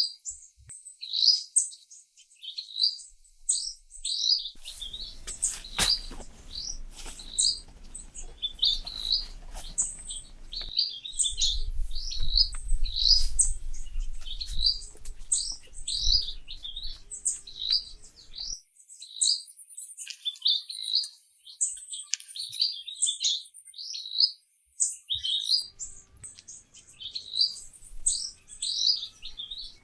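A small bird chirping over and over, short high chirps about two a second. From about five seconds in until about eighteen, a low rumble with scattered knocks and clicks runs underneath.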